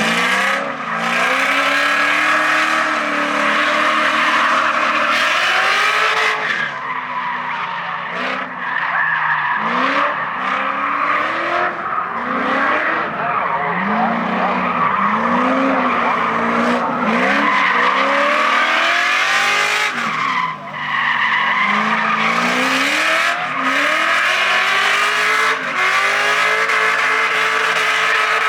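A drift car's engine revving hard, its pitch climbing and dropping again every second or two, over a steady squeal of tyres sliding.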